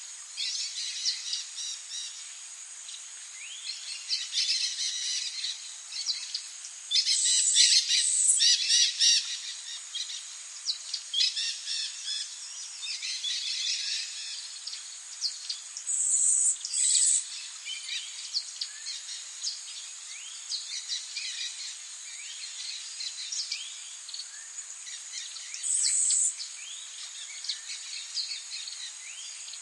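Several songbirds singing and calling at once, many short overlapping chirps and trills, over a steady high-pitched hiss. A few louder bursts of dense high trilling stand out, the longest about a quarter of the way in, others just past halfway and near the end.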